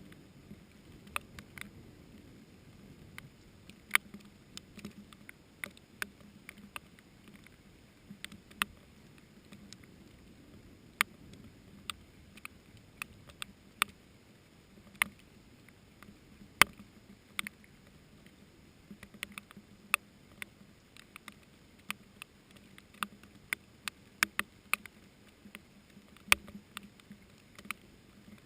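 Raindrops falling one at a time close by, each hitting with a sharp tick, irregularly spaced at about one to three a second, over a faint low steady hum.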